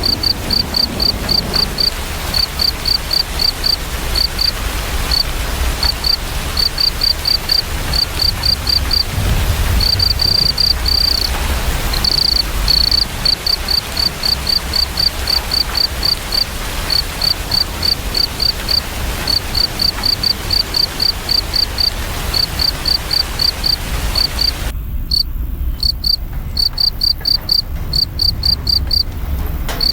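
A cricket chirping in quick runs of short, high, evenly spaced pulses over a steady hiss of rain. The rain hiss cuts off abruptly near the end, leaving the cricket on its own.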